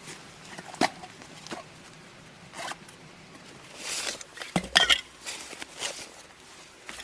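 Irregular knocks, clicks and rustles of sticks and vines being handled in building work: a single sharp click near the start, a few scattered knocks, and a denser burst of clatter a little past the middle.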